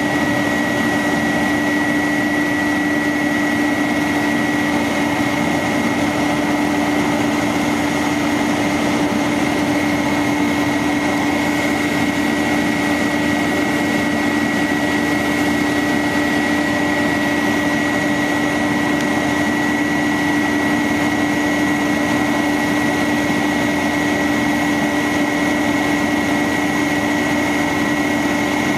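The 1999 International 4900 bucket truck running steadily, a constant hum with a steady high-pitched whine over it.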